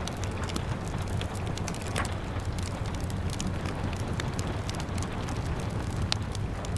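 Wood fire crackling, with scattered small clicks and a couple of sharper pops about two seconds in and near the end, over a steady hiss and low rumble of rain.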